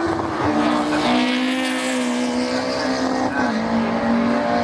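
Racing car engines running hard at high revs as the sports and saloon cars lap the track. The engine note steps down in pitch a couple of times.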